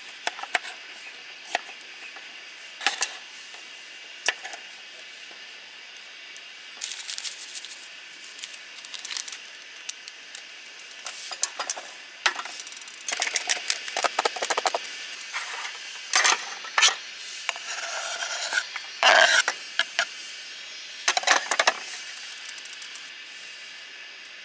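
Irregular clicks, knocks and short rustling clatters, as of objects being handled, busiest in the second half, over a steady faint background.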